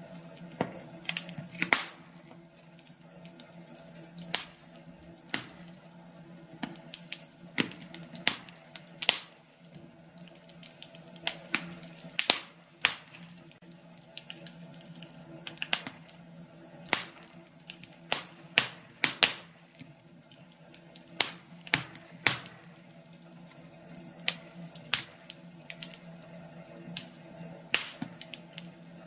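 Wood fire burning in a fireplace, crackling and popping at irregular intervals over a soft hiss, with a faint low steady hum beneath.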